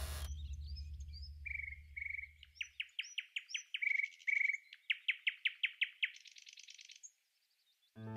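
Birds chirping: runs of short, quickly repeated high notes and trills, with the tail of fading music under them at the start. The chirping stops about a second before the end.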